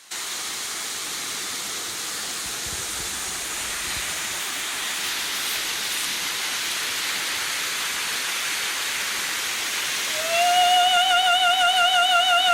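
Waterfall water rushing with a steady hiss. About ten seconds in, a woman's operatic voice enters on a single high note, scooping up into it and holding it with a wide vibrato over the roar of the water.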